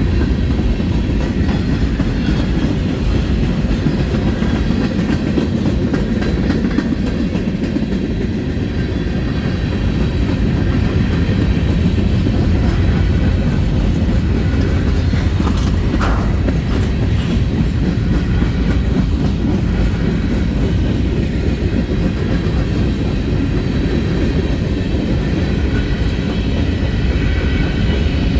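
Freight train cars rolling past at steady speed: a continuous low rumble of steel wheels on rail, with the clickety-clack of wheels crossing rail joints.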